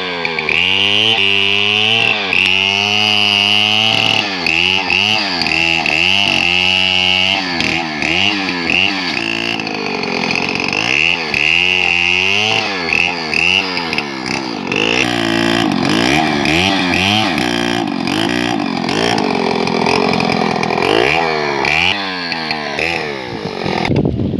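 Two-stroke chainsaw cutting a log into lumber, its engine pitch rising and falling again and again as the chain works through the wood. It stops suddenly near the end.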